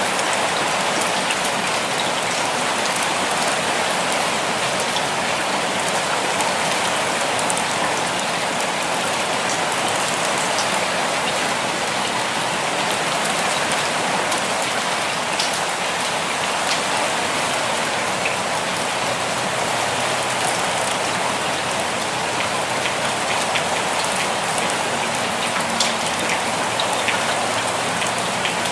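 Steady rainfall, a dense even hiss of rain with scattered individual drop ticks.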